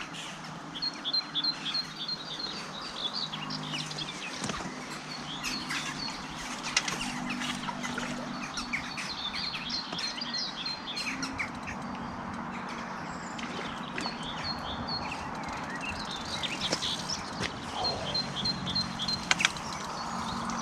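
Small birds chirping and singing, with repeated quick runs of short high notes, over a low steady hum.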